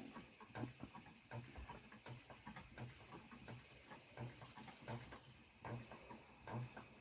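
Spinning wheel running as yarn is spun, giving faint, even knocks about every three-quarters of a second.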